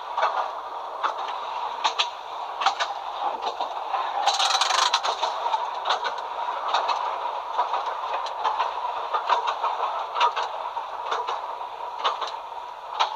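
Heritage W-class electric tram running along its track, heard from the cab: steady running noise with a faint whine and wheels clicking over rail joints about once a second. A brief hiss about four seconds in.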